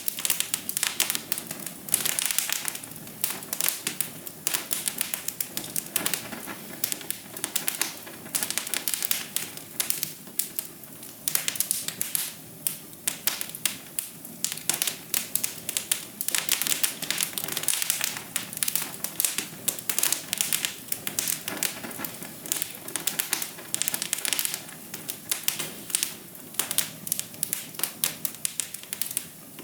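Wood fire crackling in a fireplace: a dense, irregular run of pops and snaps over a steady soft hiss.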